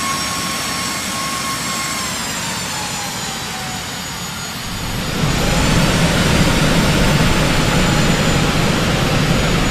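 Jet airliner engines: a steady whine drops in pitch about two seconds in. From about five seconds on, a louder, deep engine rumble builds and holds.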